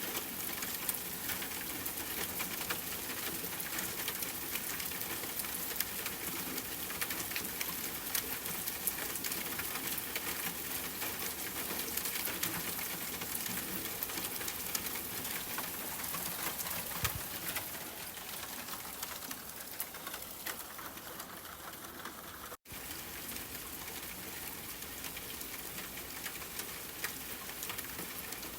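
Steady rainfall blended with a fireplace fire, with scattered small sharp crackles and drips over a soft, even hiss. The sound cuts out for a split second about three-quarters of the way through, then resumes.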